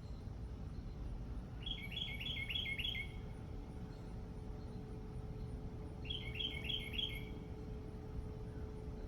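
A songbird singing two short phrases a few seconds apart, each a quick run of about five repeated high notes, over steady low background noise.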